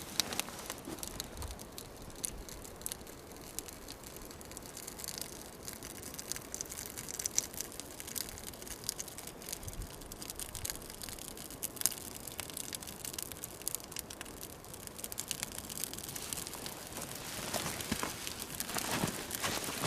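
Kindling catching under a log campfire: scattered crackles and snaps that grow busier and louder near the end.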